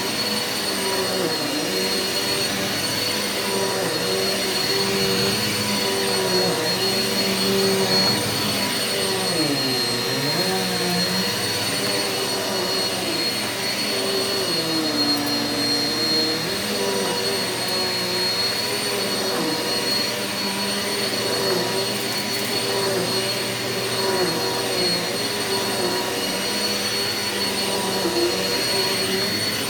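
Eureka upright vacuum cleaner running steadily with a high motor whine, its pitch dipping briefly now and then as it is pushed over carpet.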